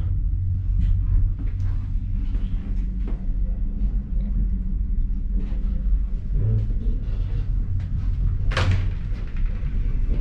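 Steady low rumble of the moving Indian Pacific passenger train, heard from inside a carriage, with light rattles and clicks. One sharper knock comes about eight and a half seconds in.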